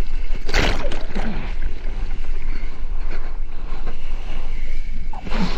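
Wind buffeting the microphone over the wash of open ocean water, with two louder gusts or splashes: one about half a second in and one near the end.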